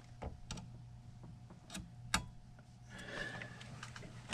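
Scattered light clicks and taps from multimeter test leads being handled and touched to a furnace control board, over a steady low electrical hum.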